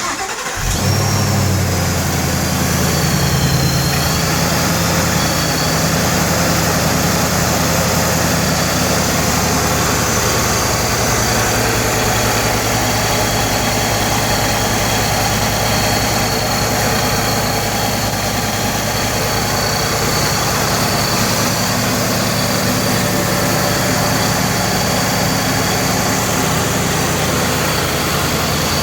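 2015 Ford Mustang GT's 5.0-litre V8, now fitted with a Procharger H.O. supercharger, fires up on its first start and settles into a steady cold idle. The engine note is higher and busier for the first few seconds before it evens out, and a thin, steady high whine runs above it.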